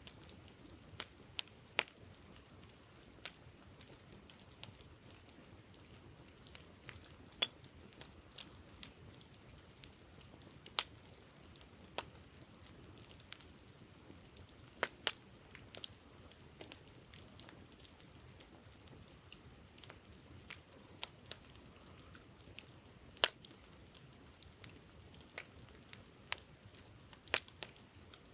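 Wood campfire crackling, with sharp pops coming at irregular intervals, a few much louder than the rest, over a faint steady hiss.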